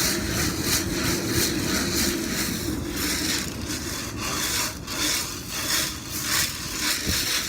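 Steel BBs and gasoline being shaken back and forth inside a 1977 Yamaha DT100 motorcycle gas tank, a steady rhythmic rattling swish that scours loose rust from the tank's inside walls.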